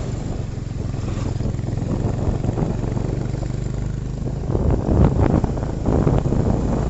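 Motorcycle engine running steadily, with louder, irregular rushing noise over it in the second half.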